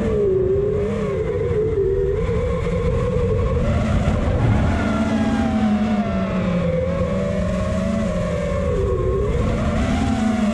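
FPV quadcopter's electric motors whining, the pitch rising and falling as the throttle changes, over a steady low rushing noise.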